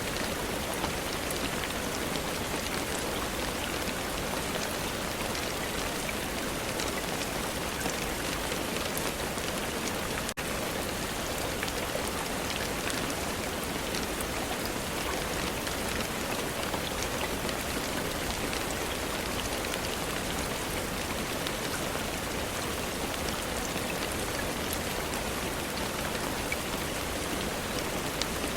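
Steady rain falling: an even hiss with many small, scattered drop ticks, and a momentary dip in level about ten seconds in.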